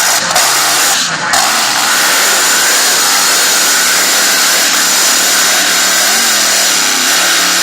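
Supercharged V8 engine of a tractor-pull vehicle running at high revs under full load during a pull. It is loud and steady, its pitch wavering slightly.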